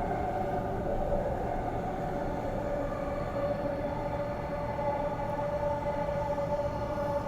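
Transperth B-series electric multiple unit running, heard from inside the carriage: a steady rumble with a steady whine of several tones on top.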